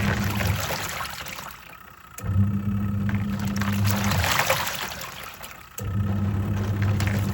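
Twin-tub washing machine's wash tub agitating: the pulsator motor hums in runs of about two seconds, stopping and starting again twice, while the water and clothes slosh in the tub with each run.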